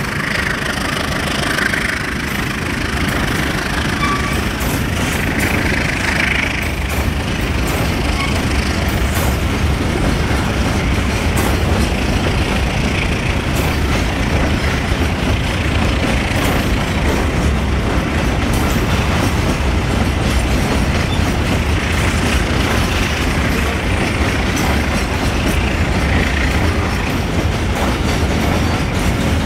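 Long coal train's wagons rolling past at close range: a steady rumble of steel wheels on the rails, with scattered clicks and clanks.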